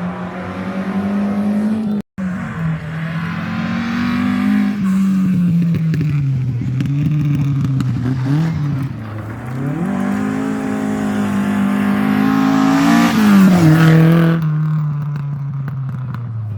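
Rally car engine revving hard on a stage, its pitch rising and falling with throttle and gear changes. It cuts out completely for an instant about two seconds in, climbs to its highest pitch past the middle, then drops sharply.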